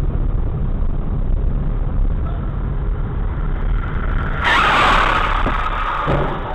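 Steady rumble of a car on the road, then about four and a half seconds in a sudden loud crash noise lasting over a second, followed by a couple of short knocks: a vehicle collision.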